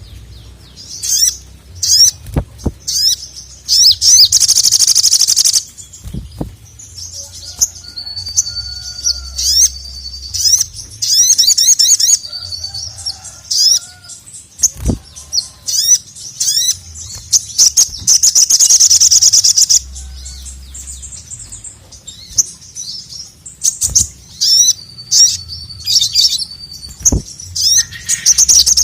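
Little spiderhunter (sogok ontong) singing in energetic bouts of rapid, high chattering notes that run into long fast trills, with a few sharp clicks between phrases.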